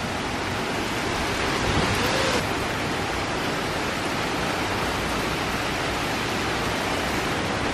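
Heavy hurricane rain pouring down as a steady, even hiss, slightly louder for a moment about two seconds in.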